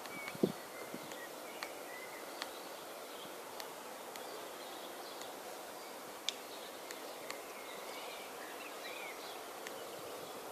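Faint bird chirps over a steady outdoor background hum, with a few scattered small clicks.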